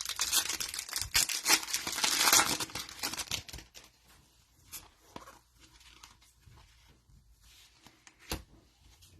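Foil wrapper of a trading card pack torn open and crinkled for about three and a half seconds, followed by quieter handling sounds and one sharp click near the end.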